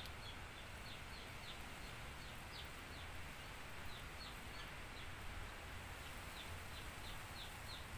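Faint, repeated bird chirps: short high notes falling in pitch, two or three a second, over a low steady background hum.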